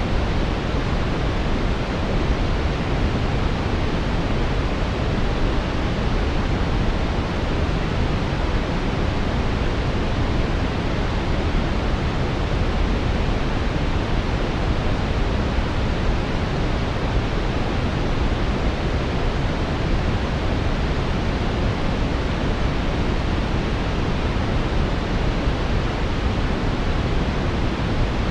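Synthetic brown noise: a steady, deep hiss with its energy weighted toward the low end, unchanging throughout.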